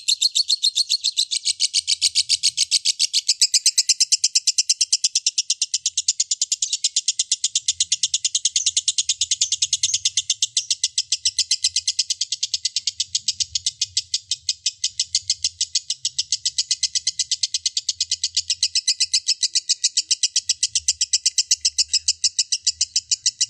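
Lovebird in a long 'ngekek' chatter: a rapid, unbroken string of shrill, evenly spaced chirps that keeps going without a pause.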